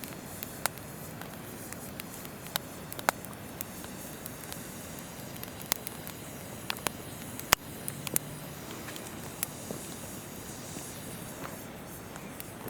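Wood campfire crackling, with irregular sharp pops, the loudest a little past halfway, over the steady rush of a flowing river.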